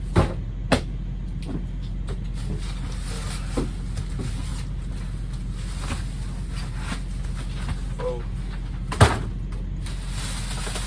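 Cardboard cases of food being shifted and set down inside a delivery truck's cargo box. A few knocks come over a steady low hum, two near the start and the loudest about nine seconds in.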